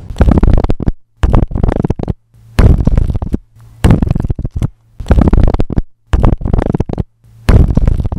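A series of short, low rattling bursts, about one a second, with sudden silences between them.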